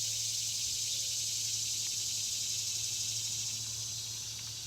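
Dense, steady high-pitched chorus of animal calls, fading slightly toward the end, over a faint low hum.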